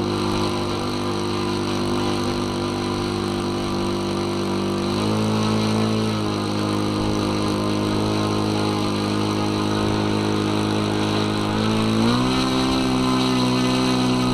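Nitro glow engine of a radio-controlled model aircraft running on the ground, with its pitch stepping up as the throttle is opened about five seconds in, dropping back a second later, then rising again near the end and holding.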